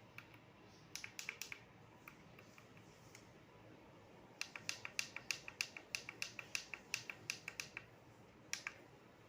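A fast, even run of light clicks, about seven a second for roughly three seconds from midway, after a few scattered clicks near the start, over a faint steady hiss.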